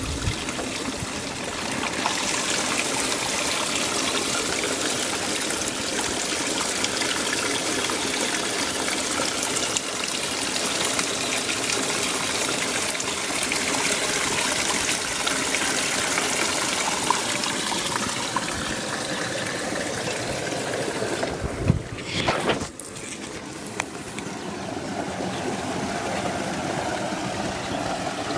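Spring water running and splashing steadily. About three-quarters of the way through there is a brief knock, after which the water sounds quieter.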